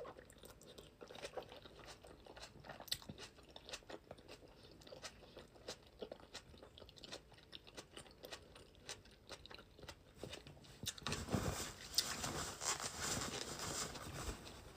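Close-miked mouth sounds of chewing and crunching a boiled onion, its layers still slightly crunchy, growing louder and denser about eleven seconds in.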